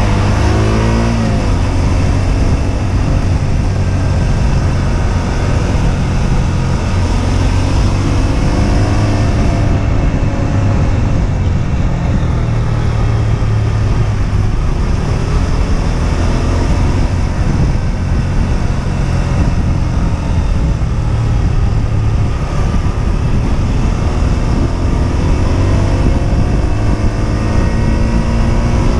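Husqvarna Svartpilen 125's single-cylinder four-stroke engine running under way, its revs climbing and dropping with the throttle and gear changes: a climb cut short about a second in, then a steady climb again near the end.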